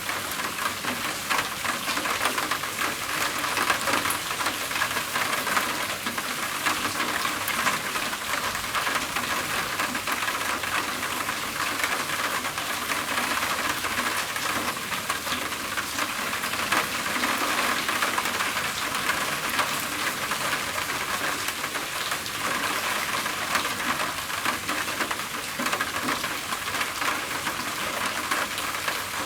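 Steady rain falling on a roof: a dense, even patter of countless drops.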